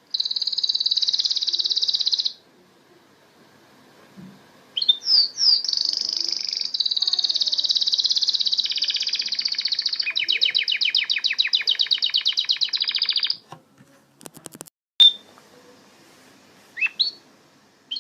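Domestic canary singing. A short high trill is followed after a pause by a long song of about eight seconds that ends in a fast rolling trill. Then come a brief clicking and a few single chirps.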